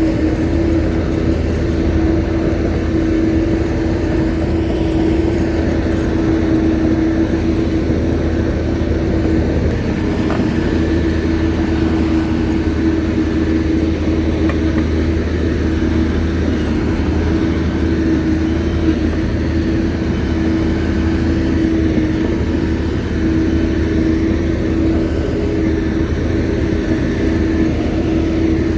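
Shantui bulldozer's diesel engine running steadily, a constant drone with a steady hum held at one pitch.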